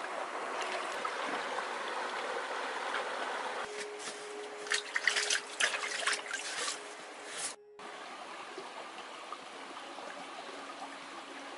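Running water trickling and splashing, with a run of louder splashes between about four and seven seconds in. It breaks off for a moment just before eight seconds, then carries on more softly.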